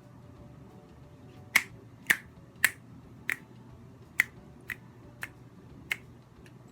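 A series of about eight finger snaps, roughly one every half second to second, starting about a second and a half in and trailing off toward the end.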